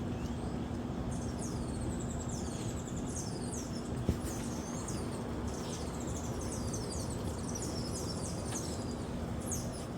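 Small birds chirping in quick, repeated high calls over a steady low background hum, with one sharp click about four seconds in.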